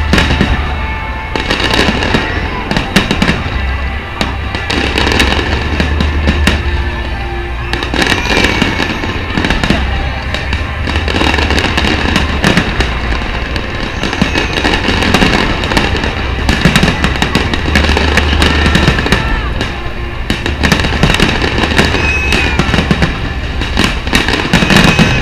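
Fireworks going off in a dense, irregular string of sharp bangs, with music playing along.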